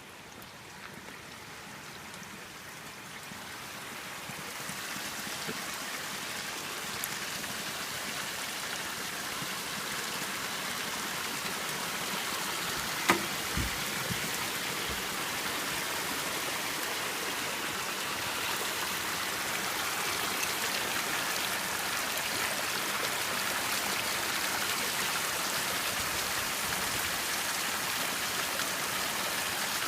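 Water of a small waterfall and stream running steadily, fading in over the first few seconds. A single knock with a low thud about 13 seconds in.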